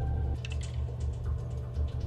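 Roulette ball spinning in the wheel, clicking irregularly as it skips over the frets, over a low steady hum.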